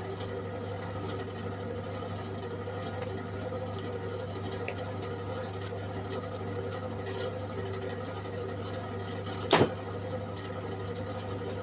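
MIG welder switched on and idling with a steady electrical hum, not yet striking an arc. One sharp knock sounds about nine and a half seconds in.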